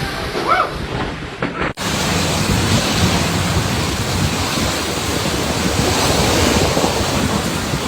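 A steady, loud rushing noise that begins abruptly at a cut a couple of seconds in, preceded by faint voices.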